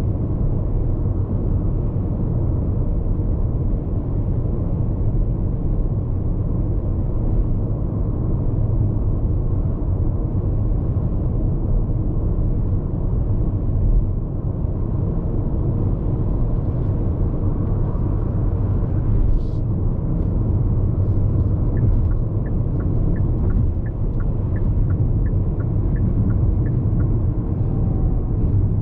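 Road noise inside the cabin of a Hyundai IONIQ 5 AWD electric car at highway speed: a steady low tyre and wind rumble with no engine sound. Near the end, a run of short, regular ticks, about two a second, lasts several seconds.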